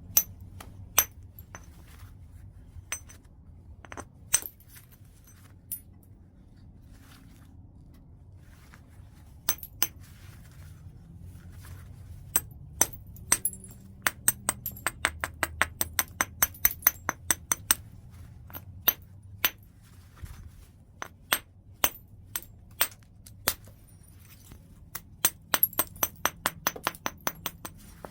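Flintknapping a large piece of white chert: sharp, clinking strikes on the stone, scattered at first, then a fast run of quick taps near the middle and another quick cluster near the end.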